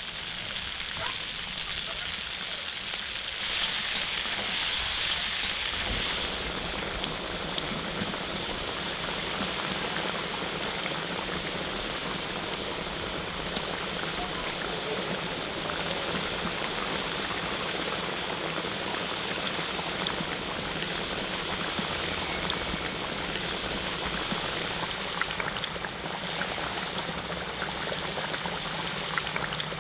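Beef shanks and tomatoes sizzling in a cast-iron pot, a steady frying hiss that grows louder for a couple of seconds about four seconds in. Near the end the sound shifts to the bubbling of the braising liquid at the boil.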